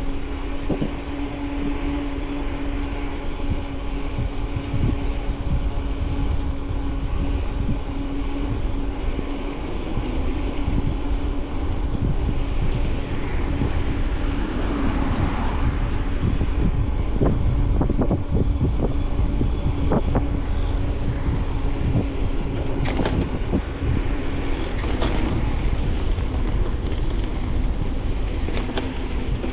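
Bicycle riding noise from a handlebar-mounted camera: wind on the microphone and tyre rumble, with a steady low hum underneath. A few sharp rattles of the bike over bumps come about two-thirds of the way through.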